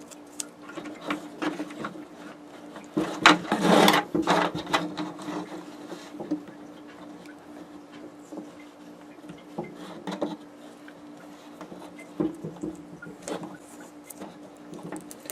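Scattered small clicks, knocks and rubbing from handling wiring and small parts, with a louder flurry of knocks about three to four seconds in, over a steady low hum.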